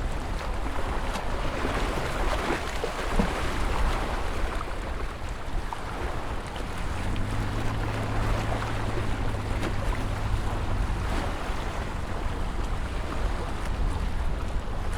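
Ocean surf breaking and washing in steadily, with wind noise. A low steady hum joins for about four seconds midway.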